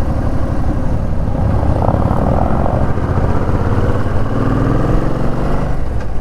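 Suzuki Boulevard C50T's V-twin engine running while riding, its pitch rising as it accelerates in the last couple of seconds.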